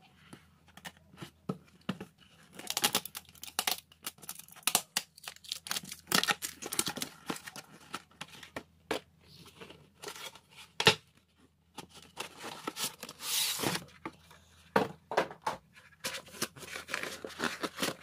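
A poster's wrapping being torn open by hand, with irregular tearing and crinkling rustles.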